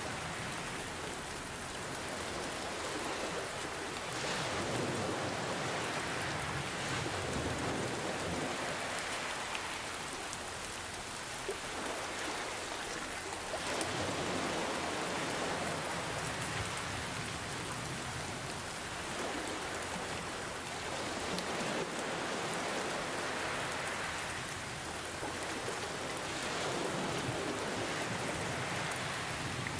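Steady rain with gentle ocean waves washing in underneath, the sound swelling and easing every few seconds.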